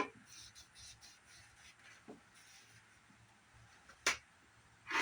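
Faint rubbing of a cleaning wipe on the plastic and glass of a CRT monitor, with a few short, sharp squeaks or scrapes: one about four seconds in and a louder one at the very end.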